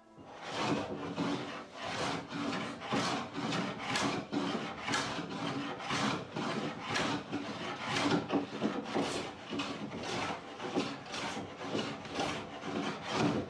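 Rhythmic back-and-forth rubbing strokes on the wooden door by hand, about two strokes a second, steady and even throughout.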